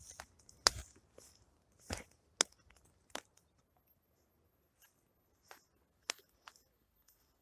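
Campfire of plum logs crackling: sharp, irregular pops and snaps, several loud ones in the first three seconds, then fewer and fainter.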